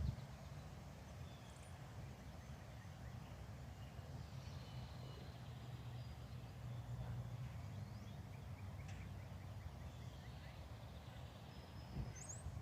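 Faint outdoor ambience: a steady low rumble of distant traffic, with a few scattered, quiet bird chirps and a short rising chirp near the end.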